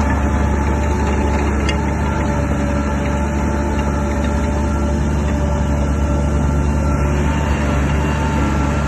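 Crawler bulldozer's heavy diesel engine running steadily: a deep, even drone with a faint steady whine above it.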